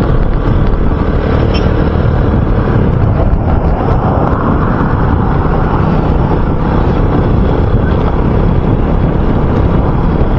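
RUSI Classic 250 motorcycle running steadily under way, its engine mixed with wind rushing over the microphone.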